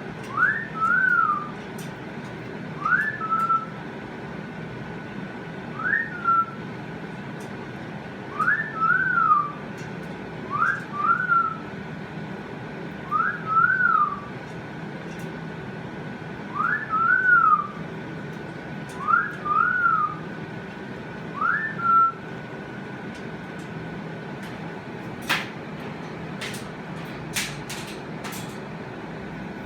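A short whistled phrase, a quick rise then a fall, repeated nine times about every two to three seconds over a faint steady high tone. A few sharp clicks come near the end.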